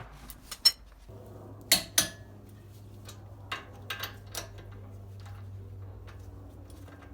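Sharp metallic clinks and clanks of tools and parts being handled during drive-axle work, about seven in the first four and a half seconds. Under them a steady low hum starts about a second in.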